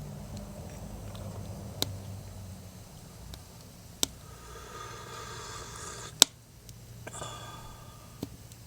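Wood fire crackling: a few sharp, separate pops, the loudest about six seconds in, over a faint steady low hum.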